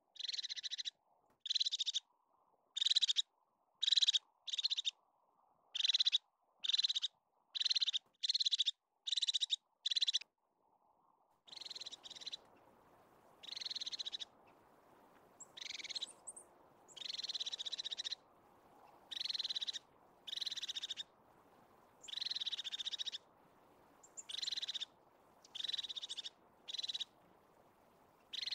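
Crested tit calling: a short, high, purring trill repeated about once a second, then longer trills spaced one to two seconds apart. A faint steady hiss of background ambience comes in about eleven seconds in.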